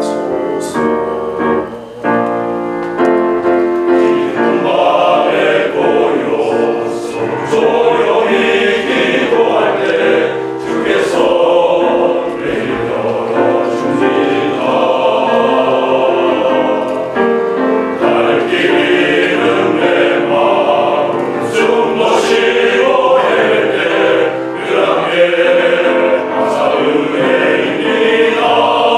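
A church elders' vocal ensemble singing a congratulatory hymn-style song in parts, with piano accompaniment.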